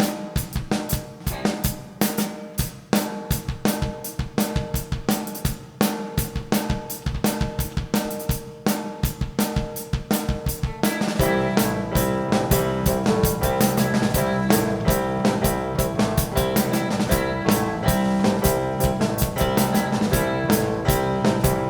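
Rock band playing live, an instrumental intro: a drum-kit beat with bass drum and snare leads for about the first ten seconds, then the rest of the band comes in with sustained notes and the sound grows fuller and steadier.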